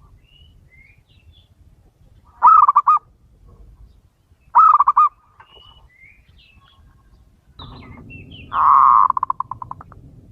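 Male zebra dove (perkutut) cooing: two short bursts of rapid, stuttering coo notes, then a longer coo about eight and a half seconds in that breaks up into separate pulses as it fades. Faint higher chirps of small birds come between the coos.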